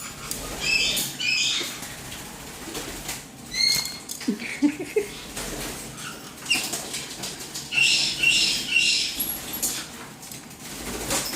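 White-bellied caique parrot giving short, high squeaky chirps in small clusters, with scrabbling and rustling as it climbs and moves about.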